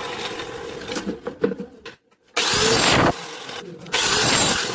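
Woodworking power tool running in short bursts that start and stop abruptly, with knocks and clicks from wood being handled between them.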